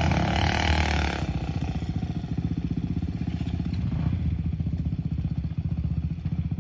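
Dirt bike engine revved hard for about the first second, then dropping back to a low, steady chugging run.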